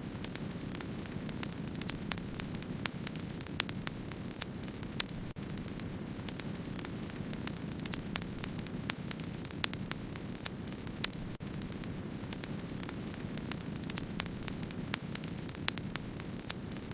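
Wood fire burning with a steady low rumble, with frequent sharp crackles and a few louder pops.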